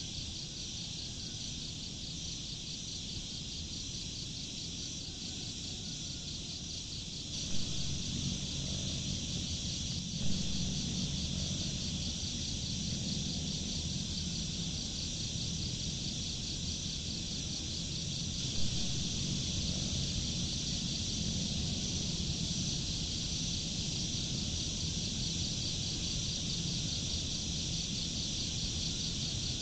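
Steady insect chorus, a high trill with a fast even pulse, over a low rushing background that grows louder about seven seconds in. There are three faint knocks, about seven, ten and eighteen seconds in.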